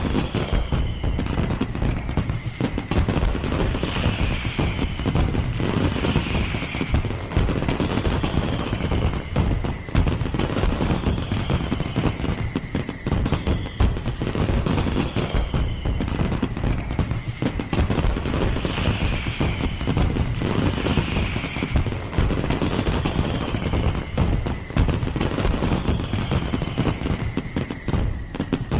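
Firework display going off in a dense, continuous barrage of rapid bangs and crackles. High falling whistles recur about every two seconds over it.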